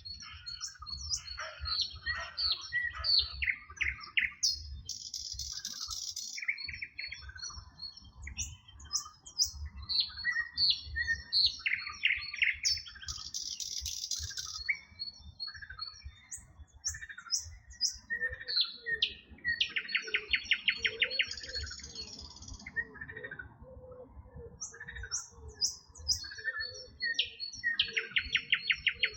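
Several songbirds chirping and singing at once, with quick high whistled notes and a buzzy trill that recurs every several seconds. A low rumble runs underneath.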